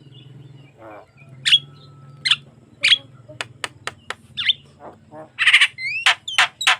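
Javan myna (jalak kebo) in full song: sharp whistled call notes, a quick run of clicks, then a harsh screech about five and a half seconds in followed by short rising whistles and a fast series of sharp notes near the end. A faint low hum runs underneath.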